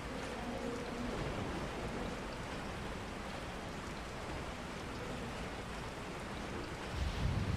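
Steady rain falling, an even hiss, with a low rumble swelling near the end.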